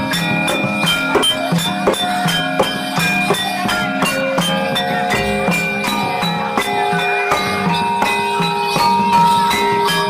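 Live jathilan dance music: struck metal instruments ring out sustained pitches over a fast, steady drum and percussion beat.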